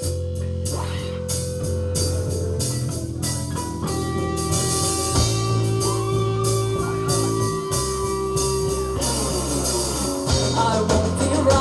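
Live rock band kicking in abruptly with electric guitar, bass and drum kit, playing a steady, loud instrumental opening of an original song.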